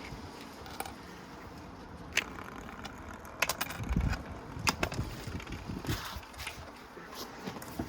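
A coin rolling and rattling around a Precept washing machine, heard as irregular clicks and knocks, with a duller thump about four seconds in.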